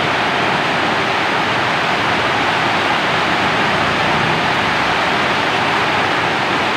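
Steady heavy rainfall: a constant, even hiss with no separate drops or rhythm standing out.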